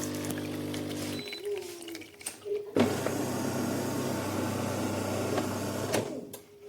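De'Longhi Dinamica Plus bean-to-cup coffee machine working through a cycle. A steady pump hum stops about a second in. After a short lull, a louder motor whirr starts and runs for about three seconds before cutting off, and a faint steady tone follows near the end.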